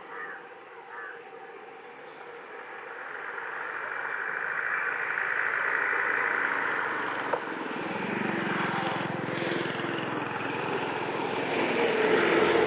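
A train hauled by a WAP-7 electric locomotive approaching and growing steadily louder, with the rumble of the wheels on the rails joining about two-thirds of the way through. A bird calls twice at the start.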